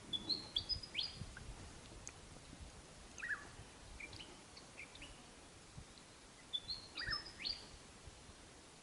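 Birds singing: one bird repeats the same quick phrase of high, stepped whistles and downward slurs twice, about six seconds apart, with scattered short chirps in between.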